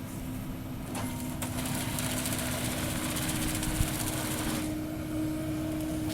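A 0.25-class forestry harvester's diesel engine running steadily. From about a second in until near the end, a loud high hiss sits over the engine, then drops away.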